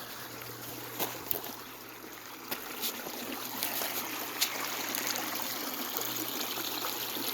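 A river or stream running with a steady trickling rush that grows louder after about four seconds, with a few sharp clicks scattered over it.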